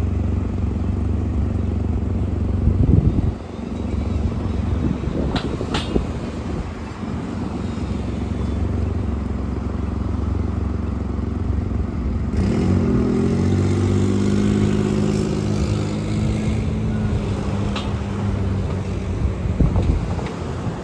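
City buses and street traffic passing, with a steady engine hum. About six seconds in there are two short high squeaks, and about twelve seconds in a heavy engine pulls away, its pitch rising and then holding steady.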